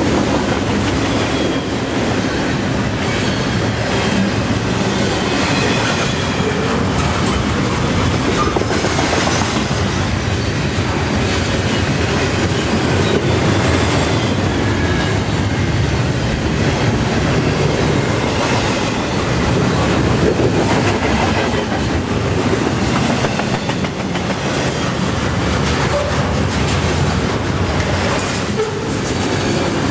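Long string of double-stack intermodal container well cars rolling past at speed: a steady rumble and rattle of steel wheels on rail, with a faint high wheel squeal near the end.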